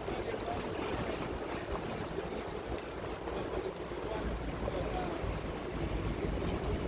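Small tour boat under way across the water. Water noise and wind buffeting the microphone make a steady, rough rumble.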